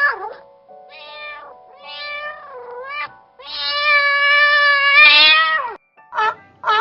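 Domestic cat meowing: three short meows, some bending down in pitch, then one long drawn-out meow of about two seconds. Near the end a run of short, sharp calls begins.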